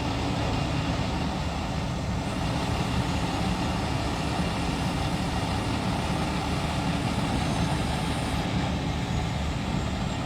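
Heavy vehicle engine running steadily under load, as the tow truck pulls the bus up out of a hole.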